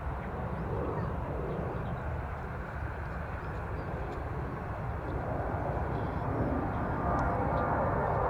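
Jet airliner engines rumbling steadily at a distance, with a higher whine building and growing louder over the last couple of seconds.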